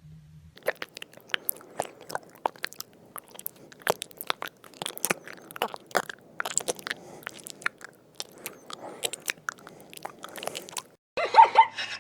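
An animal chewing, with irregular crunching and biting sounds several times a second. About a second before the end, a dog starts barking and yipping.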